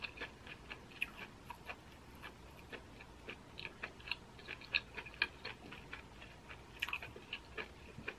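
Close-up chewing of a mouthful of baked corn cheese: faint, irregular wet mouth clicks and smacks, a few a second.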